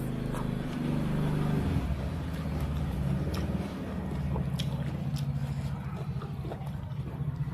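Eating noodle soup, with a few short clicks of utensils against the bowl, over a low droning hum like an engine that shifts in pitch a couple of times.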